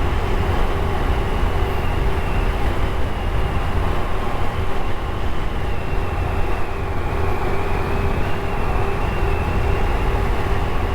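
Steady riding noise from a Honda Trail CT125 under way: wind rushing over the microphone with the 125 cc single-cylinder engine humming underneath.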